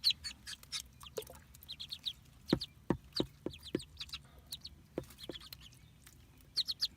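Newly hatched Muscovy ducklings peeping: short, high-pitched peeps in quick little runs, with a few sharp ticks in between.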